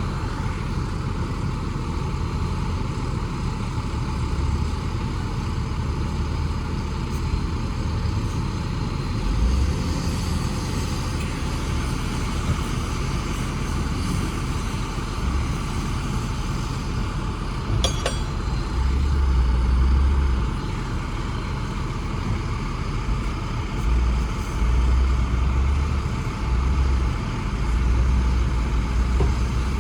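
Heavy diesel earthmoving machinery running steadily, with several louder low surges in the second half and a single sharp click about eighteen seconds in.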